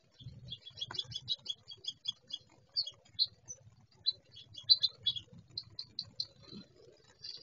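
Birds giving short, sharp chip calls, several a second in irregular runs.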